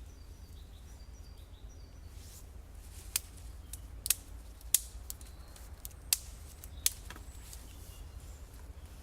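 Dry deadfall sticks snapping as they are broken by hand, a series of sharp cracks, several loud ones through the middle. Faint bird chirps are heard now and then.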